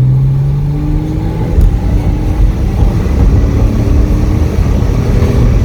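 A 2001 Porsche 986 Boxster's flat-six engine pulls under throttle, heard from inside the cabin. Its note rises gently over the first second or so, then eases and climbs again, over heavy road rumble.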